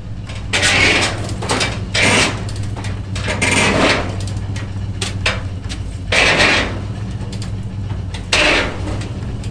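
A ute's engine running steadily with a low hum, broken by five short, loud bursts of harsh noise as it tries to drag a heavy truck chassis off a trailer.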